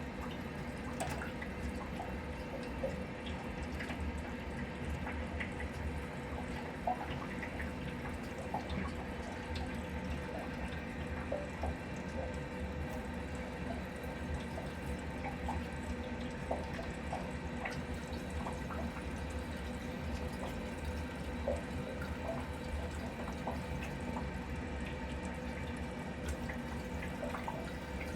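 Water running steadily from a water heater being flushed, with small irregular splashes and drips.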